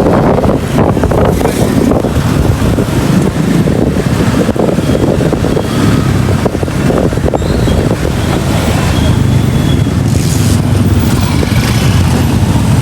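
A moving road vehicle running steadily, with engine and road rumble and wind buffeting the microphone.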